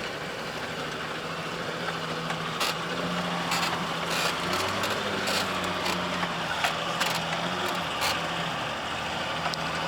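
Nissan Patrol engine running steadily under load while towing a broken-down Niva at a crawl over a rough forest track, with scattered sharp knocks and rattles.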